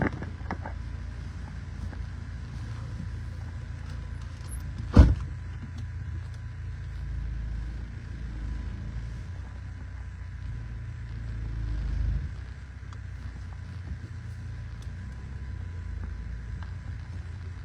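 A car heard from inside, driving with a steady low rumble of engine and road. There is one sharp knock about five seconds in, and the rumble swells around twelve seconds, then eases.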